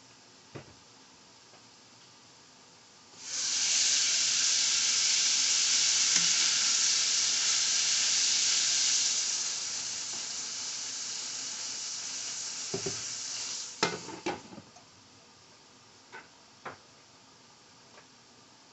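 Ackee and saltfish sizzling in a stainless frying pan: a loud sizzle starts suddenly a few seconds in as the pan is uncovered, then eases to a softer sizzle while the food is stirred with a spoon. Near the end a few metal clinks of the spoon and lid on the pan, after which the sizzle is muffled to near quiet.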